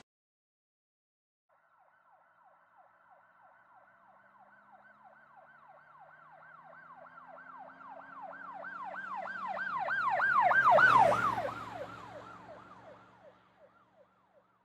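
An emergency vehicle's siren in a fast yelp, about three sweeps a second, with the vehicle's engine under it. It grows steadily louder as the vehicle approaches, is loudest about eleven seconds in as it passes, then fades away quickly.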